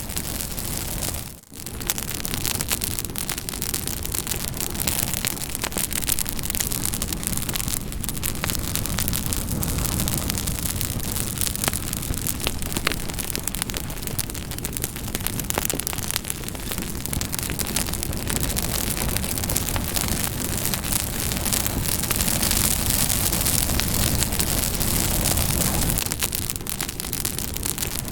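Campfire crackling: a steady hiss of burning wood with many small sharp pops and snaps. It briefly drops out about a second and a half in.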